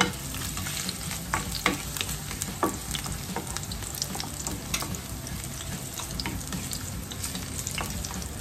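Chopped garlic sizzling in hot vegetable oil in a frying pan while a spatula stirs it against the pan, with many sharp pops and clicks over the steady frying hiss.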